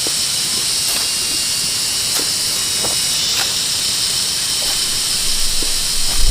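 A steady hiss with faint short scrapes or taps about once a second, and a low thump at the very end.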